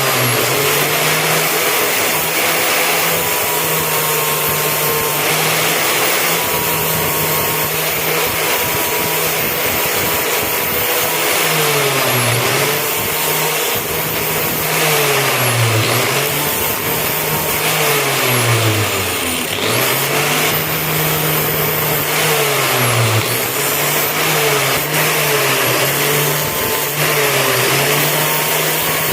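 Electric grinding or polishing tool motor running continuously. Its pitch sags and recovers again and again as the knife blade is pressed against it and eased off.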